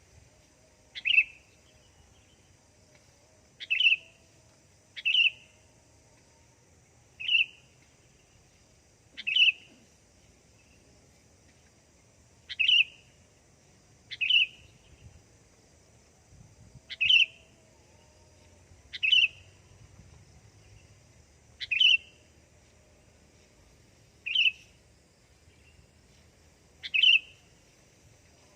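Sooty-headed bulbul (kutilang) giving a single short, sharp call over and over, about a dozen times, one to three seconds apart.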